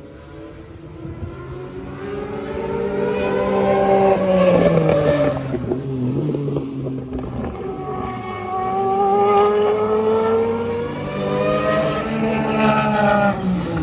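Two historic race cars accelerating past one after the other, their engines climbing in pitch as they come. The first passes about four and a half seconds in with a sharp drop in pitch, and the second passes near the end.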